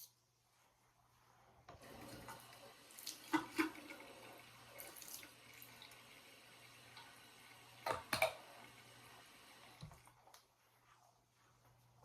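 Tap water running into a sink, starting about two seconds in and stopping near ten seconds, while an electric toothbrush is scrubbed clean with its old brush head. A couple of sharp clatters stand out, one about three seconds in and one near eight seconds.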